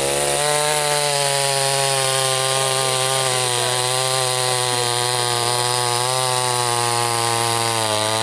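Soyuz PTS-99520T petrol chainsaw held at full throttle and cutting through wood, its engine note steady under load. Near the end the pitch sags briefly, then climbs back.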